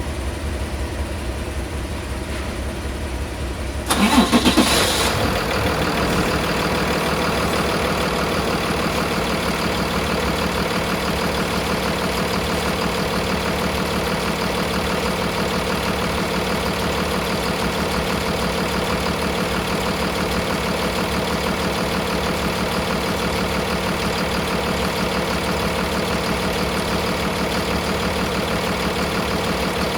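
Cummins ISB6.7 inline six-cylinder turbo diesel starting about four seconds in with a sudden loud burst, rising briefly, then settling into a steady idle.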